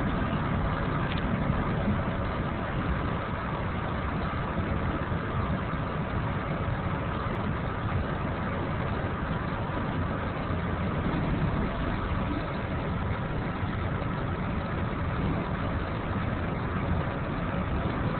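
Steady running rumble of a moving Amtrak passenger train, heard from inside the car.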